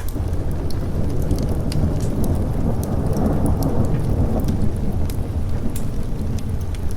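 A low rumble of thunder rolls over steady rain, swelling to its loudest about three to four seconds in and then easing off. Scattered sharp ticks sound above it throughout.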